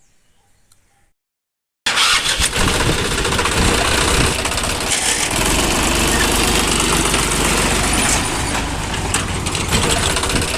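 Near silence, then about two seconds in a steady, engine-like running sound starts abruptly and keeps going.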